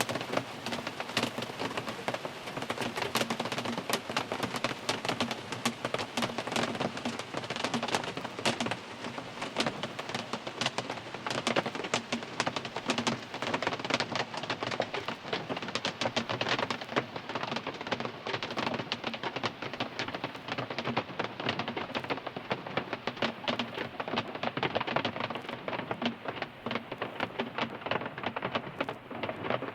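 Rain drumming on a car's roof and windscreen, heard from inside the car: a dense, steady patter of individual drops striking the bodywork and glass.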